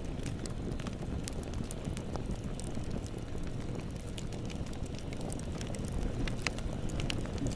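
Bonfire burning: a steady low rumble with frequent sharp crackles and pops of burning wood, scattered irregularly.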